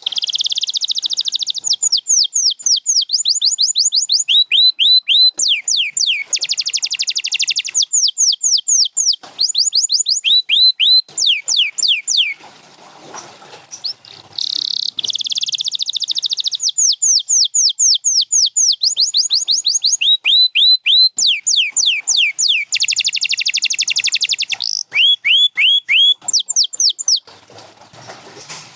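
Domestic canary singing: fast buzzy trills alternating with runs of quick, downward-sweeping whistled notes, several a second, in two long bouts with a short break about halfway.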